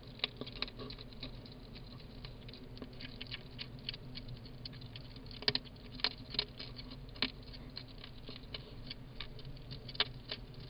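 Hedgehogs eating: a quick, irregular run of small crunching and clicking chews, with a few louder crunches past the middle and near the end.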